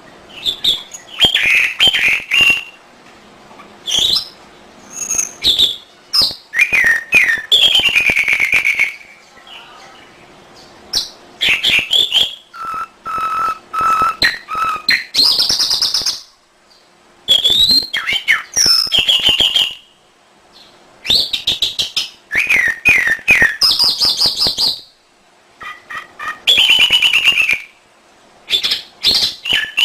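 Domestic canary singing: bursts of rapid trills, chips and whistled glides rising and falling in pitch, each phrase a second or three long with short pauses between them.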